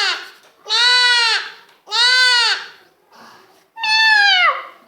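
A child's voice imitating a goat bleating: drawn-out high calls about a second apart, the last one sliding down in pitch.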